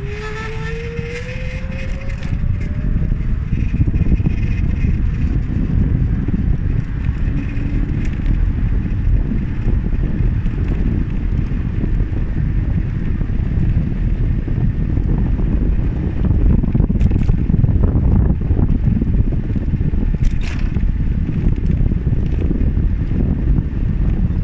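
Wind buffeting the microphone with rolling road noise while cycling. In the first few seconds a pitched whine rises and fades.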